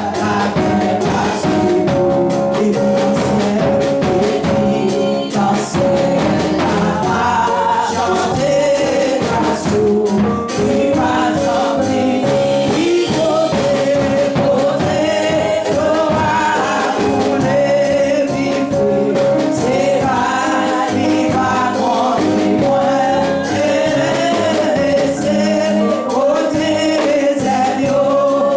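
A group of voices singing gospel music together over instrumental accompaniment with a steady beat.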